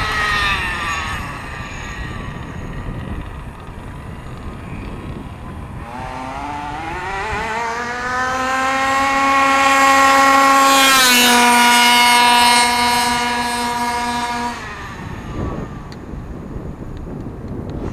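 HPI Baja 5B 1/5-scale RC buggy's OBR two-stroke gas engine on a full-throttle run: its high whine climbs steeply as it accelerates, holds at top revs, drops suddenly in pitch as it passes, and is cut off a few seconds later.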